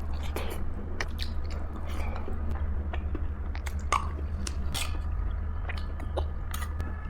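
Close-miked chewing and biting of food, with many short, crisp mouth clicks and crunches, over a steady low hum.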